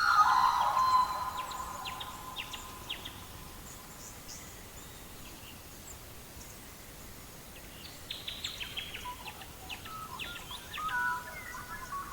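Songbirds chirping and singing. There is a louder run of song in the first second and again near the end, short high chirps in between, and a quieter stretch in the middle.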